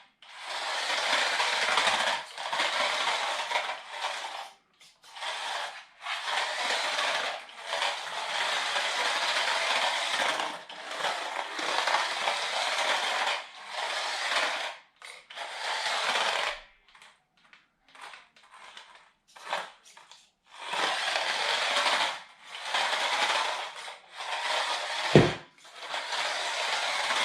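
A 1/28-scale RC drift car's small 130 brushed motor and plastic drivetrain whirring and rattling in bursts of a few seconds with short pauses between, as the throttle is worked on and off. One sharp knock comes near the end.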